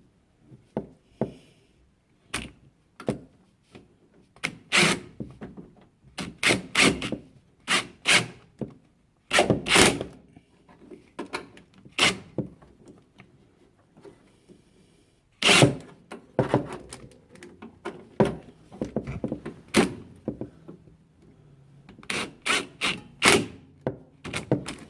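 Irregular knocks, clunks and clicks of hands working around a refrigerator's water inlet valve bracket. They are handling and setting down tools and parts in uneven bursts, with short quiet gaps between them.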